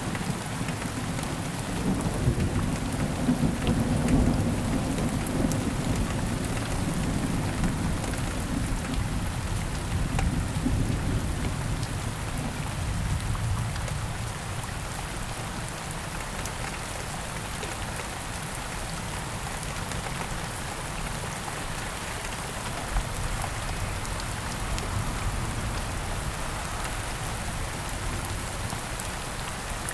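Steady heavy rain with a long, low rumble of thunder through the first half that dies away about halfway through.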